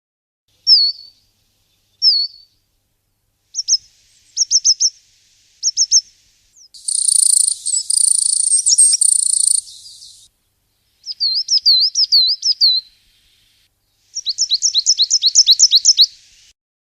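A small songbird singing in high-pitched phrases: two single down-slurred notes, then short runs of quick notes, a dense buzzy jingle lasting about three seconds, and fast runs of repeated notes near the end.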